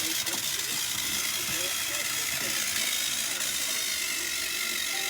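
Battery-powered toy train engines running, a steady motor whir with the rattle of their gears and wheels.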